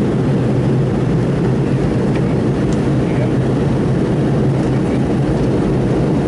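Steady, loud jet engine and airflow noise inside the passenger cabin of a McDonnell Douglas MD-82, with a deep hum from its rear-mounted Pratt & Whitney JT8D turbofans.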